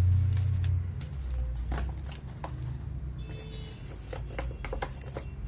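Handling noise: scattered short clicks and rustles over a low hum, which is loudest at the start and eases after about a second.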